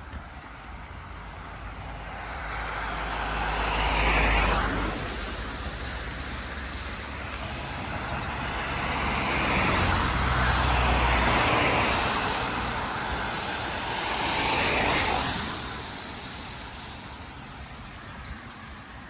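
Road vehicles passing one after another: three passes, each a rise and fall of tyre and engine noise, loudest about four seconds in, around ten to eleven seconds in, and near fifteen seconds in.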